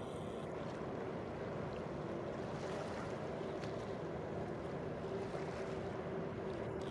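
Steady rumble of a large ferry under way, heard across the water along with wind and waves. A faint steady hum comes in about two seconds in and holds through the second half.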